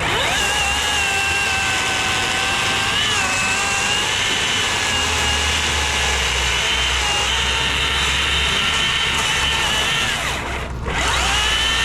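Chainsaw spinning up to speed and running at a steady high-pitched whine. Near the end it drops off briefly, then spins up again.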